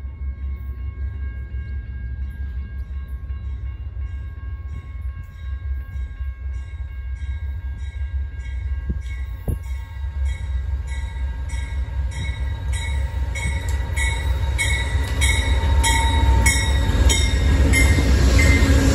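Amtrak passenger train hauled by GE Genesis P42DC diesel locomotives approaching and pulling past, its deep engine rumble growing louder toward the end. Over it a bell rings in steady strokes about twice a second.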